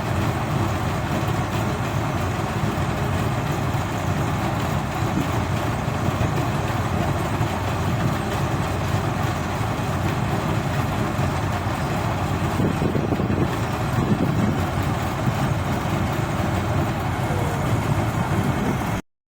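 Engine of a paddy machine running steadily at a constant speed, then cutting off suddenly near the end.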